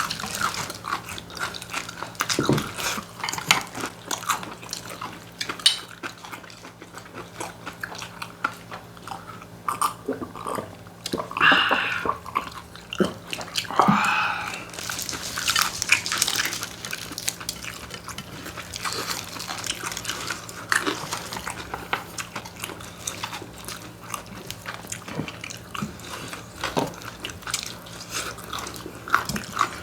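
Close-miked eating sounds: people biting and chewing fried chicken and bone-in spicy chicken feet, with many small crunches and clicks and a few louder moments near the middle.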